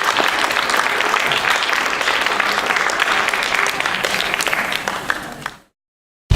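Audience applauding, a dense patter of many hands clapping that fades out about five and a half seconds in and cuts to dead silence.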